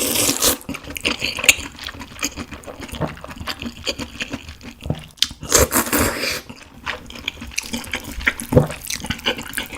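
Close-miked slurping of cold seafood mulhoe broth, with wet chewing and smacking in between; one longer, louder slurp a little past halfway.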